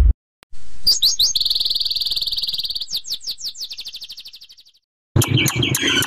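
A songbird singing: a few quick sweeping notes, then a rapid high trill, more sweeping notes and a second trill that fades away.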